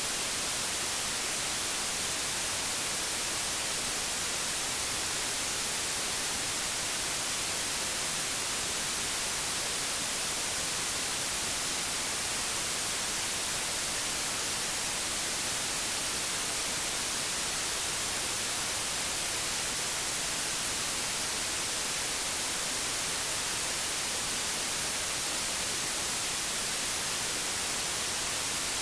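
Old analogue television static: a steady, unbroken hiss, brightest in the treble, that does not change.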